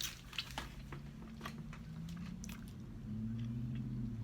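A person chewing and biting food, with scattered sharp crunchy clicks, over a low hum that gets louder about three seconds in.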